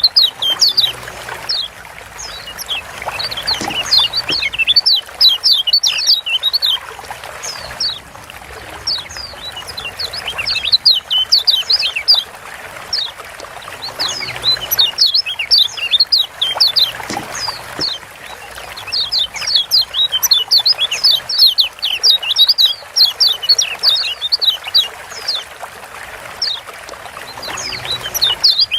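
Kecial kuning Lombok (a yellow white-eye, Zosterops) giving rapid 'ciak' chattering calls, with short quick downward-slurred notes in bursts a few seconds long, separated by brief pauses. A steady trickling hiss runs underneath.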